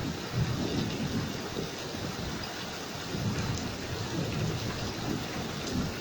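Thunder rumbling low and unevenly over steady rain.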